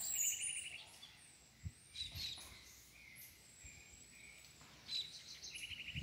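Several wild birds calling and singing in trees: scattered high chirps and whistles, with a short rapid trill at the start and again near the end.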